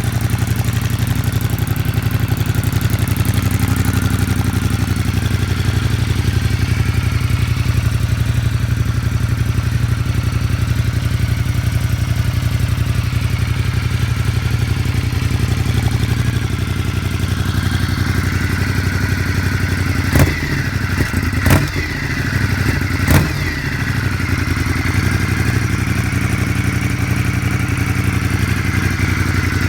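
Ducati Multistrada 1200 DVT's twin-cylinder engine idling steadily through an Arrow decat pipe and works can with the baffle fitted. About two-thirds of the way through, three sharp knocks are heard over the engine.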